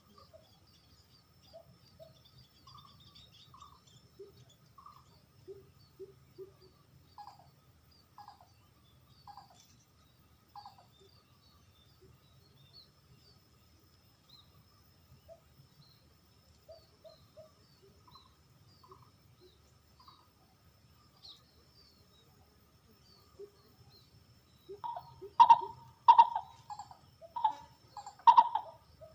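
Dove calls: faint scattered chirps at first, then from about 25 s in a run of about five loud, short cooing notes close to the microphone.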